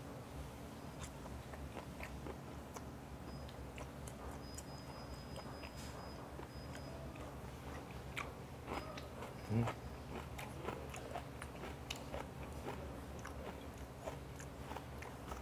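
Close-miked chewing of thickly sliced raw fish (hoe), with small faint clicks scattered throughout and one louder, short low-pitched sound a little past halfway.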